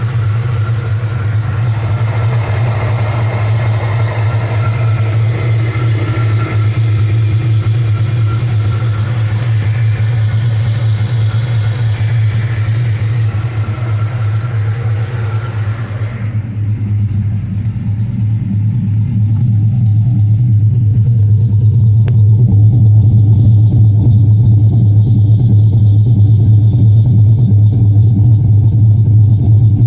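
Chevy Avalanche V8 with an aftermarket cam, idling steadily with a choppy, uneven beat. It gets somewhat louder from about twenty seconds in.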